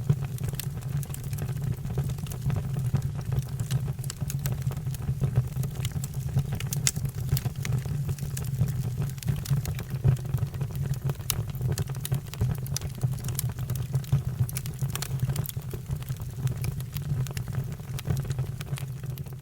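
Wood fire burning: a steady low rumble of flames with frequent sharp crackles and pops throughout.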